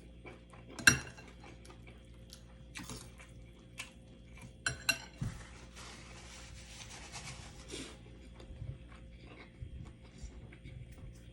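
Cutlery clinking against a plate or bowl during a meal: a sharp clink about a second in, a few more about halfway through, then about two seconds of steady scraping noise.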